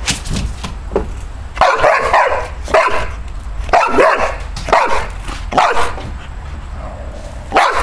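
Dog barking repeatedly at birds perched out of its reach, about six loud barks roughly a second apart.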